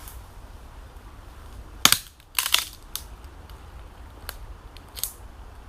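A few sharp cracks and crunches: a loud crack just before two seconds in, a longer crunch half a second later, then fainter clicks later on.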